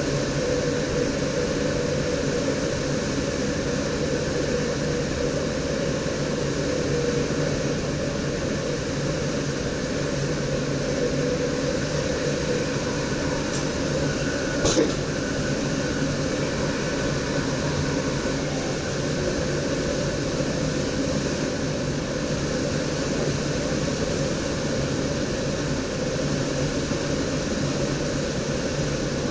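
Steady running noise inside the driving cab of a DDZ electric double-deck train: a constant hum with a few held tones over rail and air noise. One short sharp click about halfway through.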